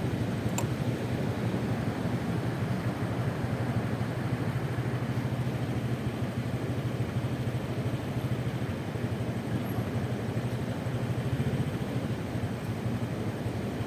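Honda Vario 125 scooter's single-cylinder engine running steadily while riding, mixed with the rush of road and wind noise, at an even level.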